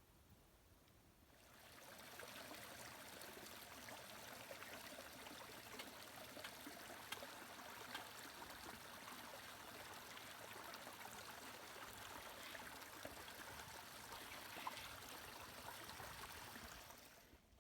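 Steady heavy rain, a dense patter of many small drops, fading in about a second and a half in and fading out near the end.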